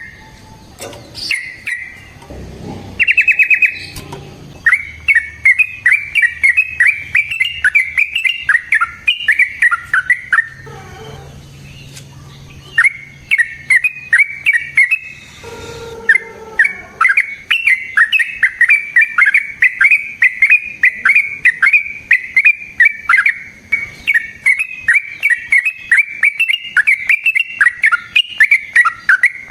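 Yellow-vented bulbul singing: long runs of quick, bubbling chirps, broken by a few short pauses.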